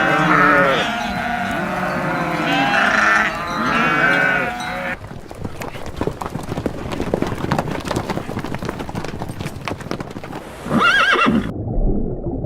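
Farm animal calls that rise and fall in pitch for about five seconds, then several seconds of dense clattering clicks, with one more short call near the end.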